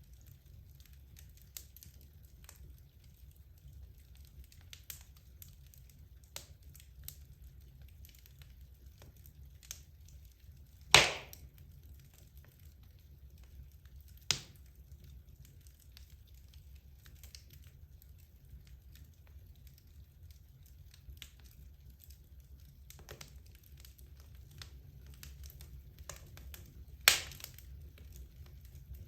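Wood fire burning in a fireplace: scattered small crackles over a low steady rumble, with three loud sharp pops from the burning logs, about 11, 14 and 27 seconds in.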